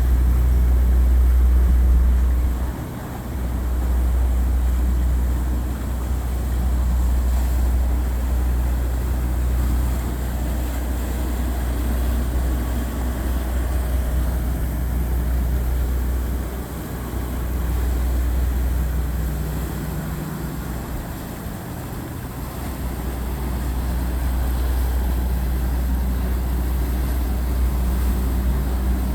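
Motorboat engines running as boats pass through the canal: a steady deep rumble that dips briefly a few times and swells again, with a faint engine hum above it.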